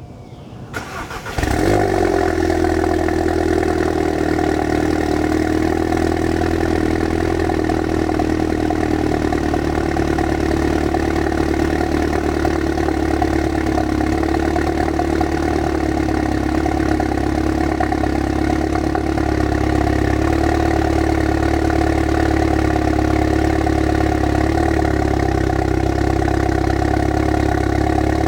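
Volkswagen Mk7 GTI's turbocharged 2.0-litre four-cylinder cold started through an Integrated Engineering downpipe and Clubsport S muffler. It cranks briefly, catches about a second and a half in, then idles steadily and loudly.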